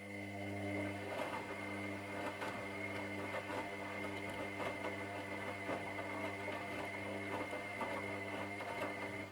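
Washing machine motor turning the drum during a wash cycle: a steady hum with a thin high whine and a scatter of small clicks and rattles, cutting off suddenly at the end.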